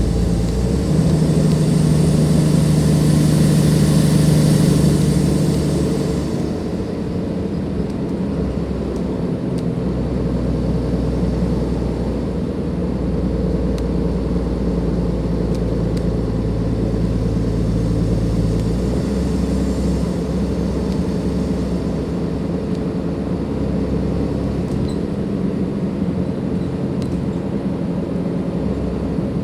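A Dennis Enviro 500 double-deck bus's Cummins ISLe diesel engine running under load, with a high turbo whine rising over the first few seconds. The load drops off about six seconds in. The engine then runs on at a lower, steadier note, and its pitch steps at about ten and nineteen seconds.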